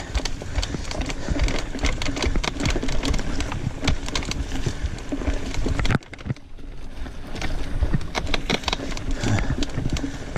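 Mountain bike ridden over a rough dirt trail: wind buffeting the microphone over a low rumble, with the bike clattering and rattling in many sharp irregular clicks. The noise drops off suddenly about six seconds in, then builds back up.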